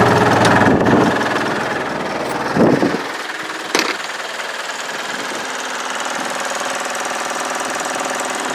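Land Rover Series II engine running, heard from the cab. About three seconds in, its low hum drops away, leaving a steady higher noise, with a short sharp click a second later.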